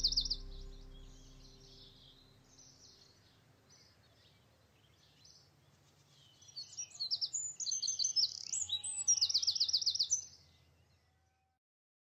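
Songbirds chirping and trilling in rapid high trills, fading away with a low music tone in the first couple of seconds, then a second, louder bout of chirps and trills from about six to ten seconds in before the sound cuts off.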